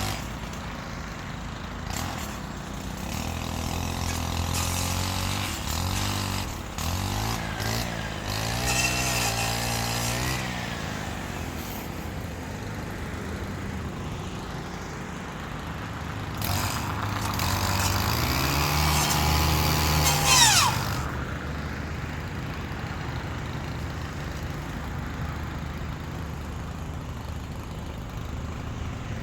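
Stihl FS 111 R brushcutter fitted with a saw blade, its small engine revving up and down as it cuts low tree branches. It rises to high revs twice, about eight seconds in and again near twenty seconds, then drops back toward idle.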